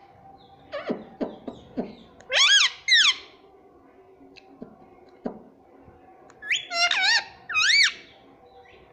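Pet ringneck parrot giving high, squeaky calls: a few short sweeping notes about a second in, then two loud two-part calls that rise and fall in pitch, one about two and a half seconds in and another about seven seconds in.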